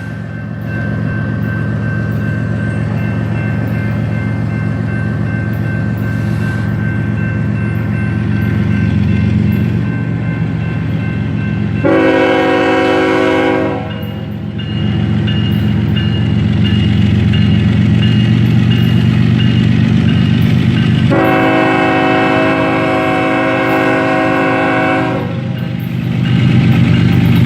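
Diesel locomotive running steadily, with two blasts of its multi-note air horn: a short one about twelve seconds in and a longer one of about four seconds a little past the middle, and a third starting right at the end.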